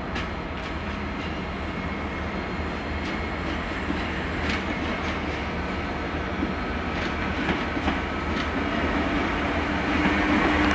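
GWR Class 800 intercity train running slowly in over the junction pointwork, with a steady rumble and scattered clicks as its wheels cross the rail joints and points. The level climbs as the train draws near, and a steady hum comes in towards the end.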